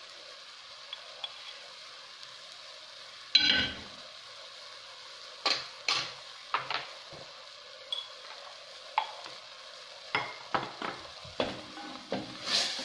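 Chopped onion and garlic sizzling steadily in oil in an earthenware tagine, with sharp knocks of a wooden spoon against the clay pot, coming thick and fast in the last few seconds as the spices are stirred in.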